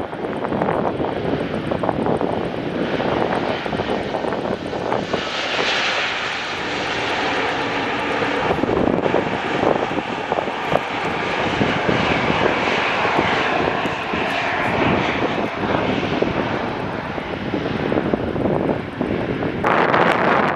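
Jet airliner's engines passing close by: a loud, steady engine noise with a high whine that is strongest in the middle stretch.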